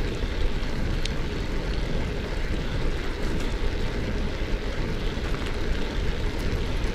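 Steady wind buffeting on the microphone with rumble of narrow bicycle tyres rolling over a sandy dirt track, and a couple of faint clicks.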